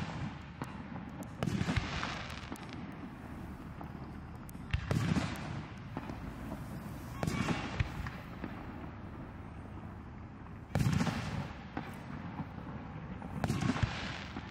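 Aerial firework shells bursting in the sky one after another: about five booms a few seconds apart, each trailing off in an echoing rumble.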